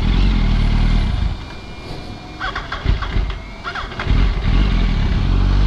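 Yamaha R1 inline-four engine running at low revs as the bike moves off slowly. It goes quieter about a second in, then picks up again about four seconds in.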